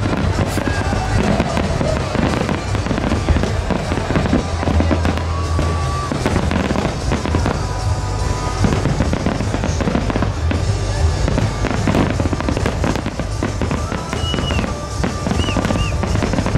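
Fireworks finale: a dense, continuous barrage of aerial shell bursts and comet launches banging and crackling, with music playing behind. A few short whistles come near the end.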